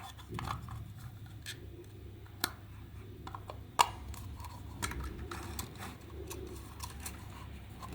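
Scattered small clicks and taps of hard parts being handled and worked on, with two sharper clicks about two and a half and nearly four seconds in, over a low steady hum.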